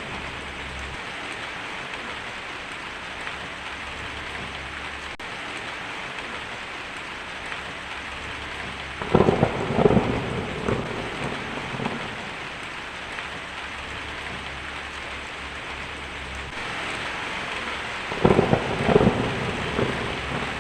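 Steady rain falling in a thunderstorm, with two crackling peals of thunder, one about nine seconds in and one near the end, each lasting a couple of seconds.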